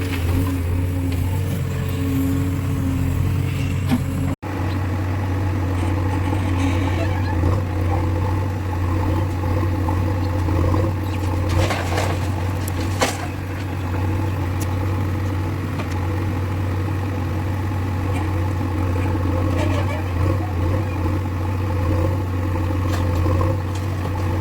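Diesel engine of a JCB 3DX backhoe loader running steadily while it works. The sound cuts out for an instant about four seconds in, and there are two sharp knocks around the middle.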